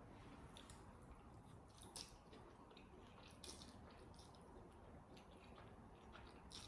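Faint chewing of noodles, with a few soft, wet mouth clicks scattered through it.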